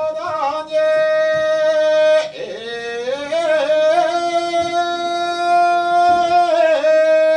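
Kagura chant: a voice singing long held notes, sliding and wavering between them.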